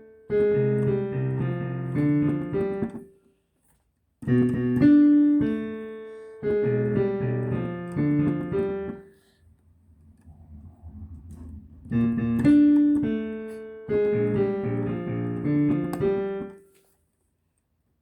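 Piano played in chords, in three short phrases separated by pauses, each phrase fading away as the notes ring out; the second and third phrases open with the same figure.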